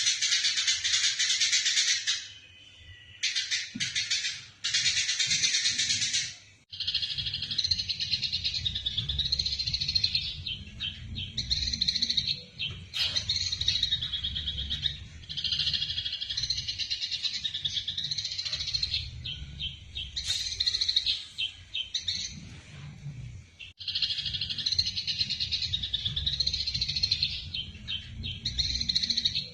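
Eurasian tree sparrows chirping rapidly in dense runs, the agitated chatter of sparrows fighting, broken by a few short pauses. A low rumble sits underneath from about seven seconds in.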